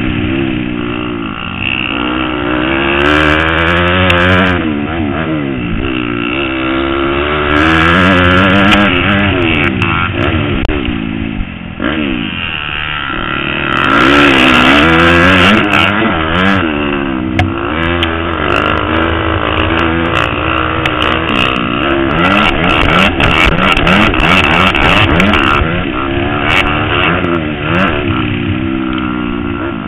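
Motocross motorcycle engine ridden hard, revving up and easing off again and again, its pitch climbing and dropping every second or two.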